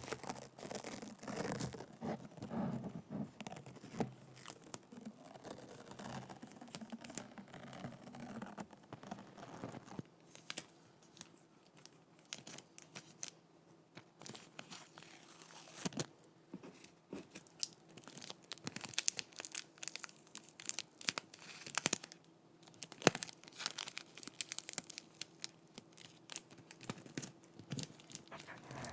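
Sticky tape on a microphone, peeling and crackling close up. There is dense crinkly crackling for about the first ten seconds, then sparser sharp snaps and ticks.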